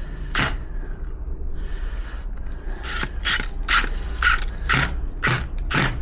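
Short, repeated scraping strokes of a hand tool working a fixing in, one just after the start and then about two a second through the second half.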